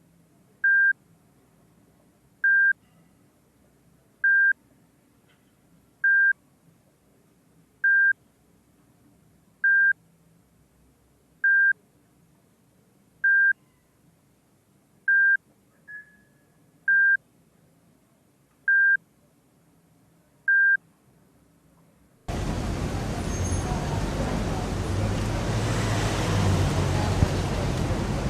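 An electronic beep, one steady tone, repeating about every two seconds, a dozen times over a faint low hum. About 22 seconds in it cuts suddenly to a loud busy-street ambience of traffic and voices.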